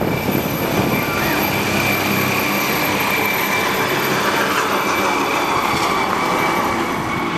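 Air ambulance helicopter's turbine engine running, with a steady high whine over a broad rushing noise and the rotor chop less marked than just before.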